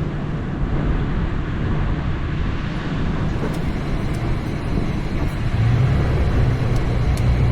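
Toyota FJ Cruiser's 4.0-litre V6 engine running as the SUV drives a muddy dirt trail, a steady low drone with tyre and road noise over it. The drone grows louder about two-thirds of the way through.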